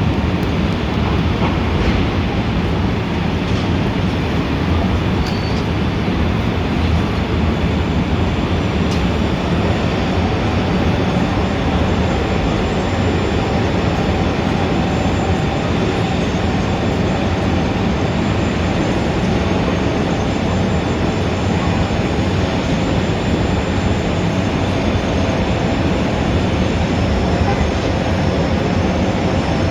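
Steady, dense city traffic noise: a continuous low rumble with a faint hum that comes in partway through.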